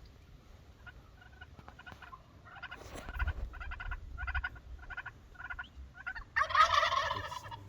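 Wild turkey toms gobbling: a string of rattling gobbles begins about two and a half seconds in, and a louder, closer gobble comes near the end.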